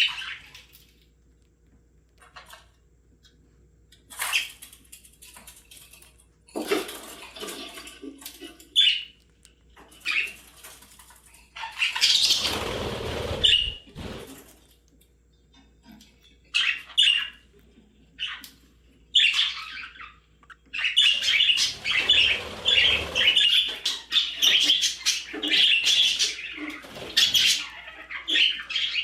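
Budgerigars chirping and chattering in short scattered calls, which run together into near-continuous warbling about two-thirds of the way through. A short burst of rustling noise comes near the middle.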